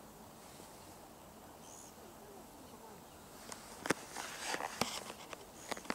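Small birds chirping briefly in the first half. From about three and a half seconds in, an irregular run of sharp clicks and rustling, louder than the chirps.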